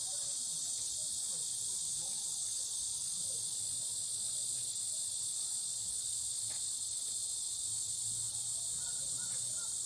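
Steady, high-pitched insect chorus, an unbroken shrill drone from many insects.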